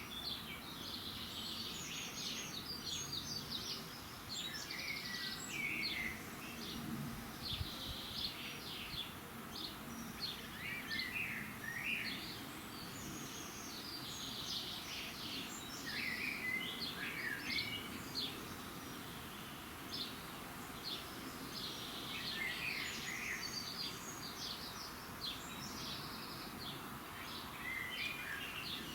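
Dawn chorus of several songbirds: many short chirps and trills overlapping throughout, over a faint steady background hiss.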